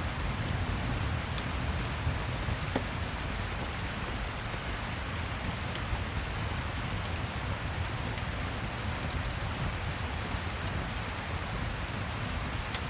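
Steady rain ambience: an even rush with scattered faint ticks.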